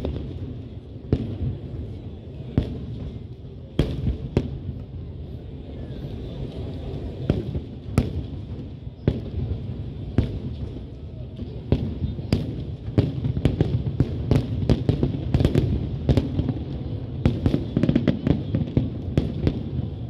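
Fireworks display: aerial shells bursting in sharp, irregular bangs over a continuous low rumble. The bangs come more densely in the second half.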